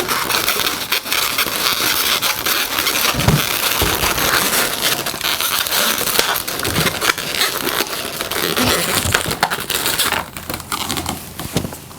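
Latex modelling balloons rubbing and crackling against each other and the hands as they are handled and twisted into a pinch twist, a dense run of rubbing and clicks that eases off about ten seconds in.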